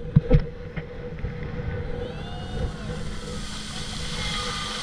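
Motorboat engine running steadily, with a couple of sharp knocks in the first half second.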